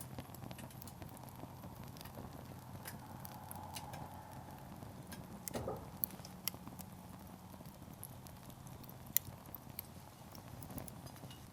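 Firewood burning in a campfire, crackling with irregular sharp pops over a low steady background, the loudest pop about nine seconds in.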